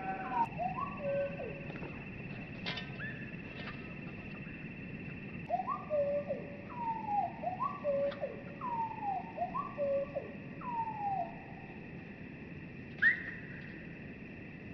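Northern cardinal song slowed down, so the whistles come out low and drawn-out: a run of downward-sliding notes, repeated about once a second, over a steady high tone. One sharp, loud upswept note comes near the end.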